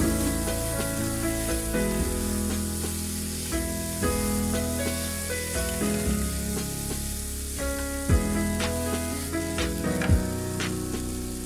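Chopped tomatoes and onions sizzling as they fry in oil in a pan while being stirred. Background music with held notes plays over it, with two deep bass-drum hits in the second half.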